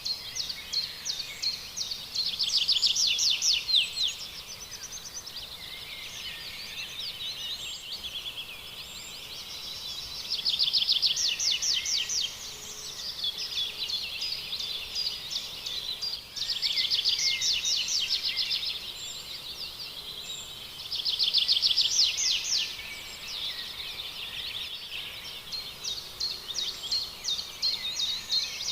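Birds singing: a loud, rapid trill comes four times, about every five to six seconds, over steady chirping.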